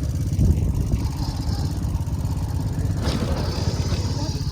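Bamboo train's small engine running steadily under way, a fast even chugging, with a brief surge of rattle and hiss about three seconds in.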